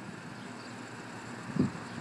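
Low steady rumble of an LIRR Montauk Branch diesel train approaching from a distance, with a brief low thump about one and a half seconds in.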